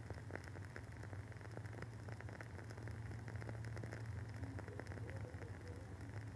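Wooden wick of a WoodWick candle crackling as it burns: many soft, irregular pops and ticks, over a steady low hum.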